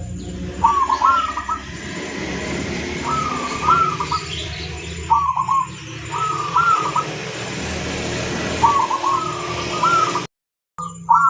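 Zebra dove (perkutut) cooing: short phrases of quick staccato coos, repeated every one to two seconds over a steady background hiss and hum. The sound cuts out completely for about half a second near the end.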